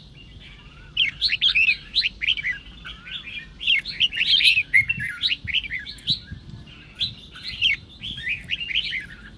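Red-whiskered bulbul song: quick, chattering whistled phrases in short bursts with brief pauses between them. This is the combative song that keepers play to goad other bulbuls into singing.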